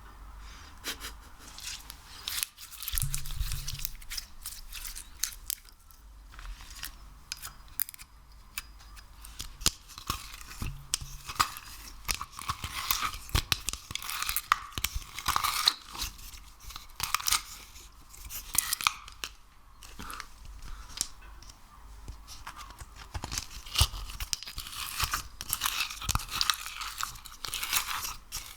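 Sticky, crackling sounds of slime or wax-like ASMR material being worked: a dense run of small pops, snaps and squelches that grows busier after about ten seconds.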